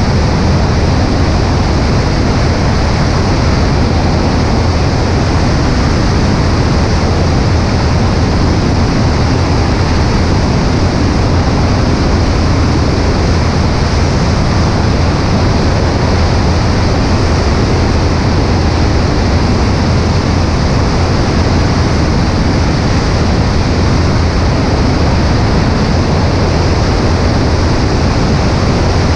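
Steady cabin noise of a Cessna 140A in flight: the engine and propeller drone with a low hum under a constant rush of air, loud and unchanging.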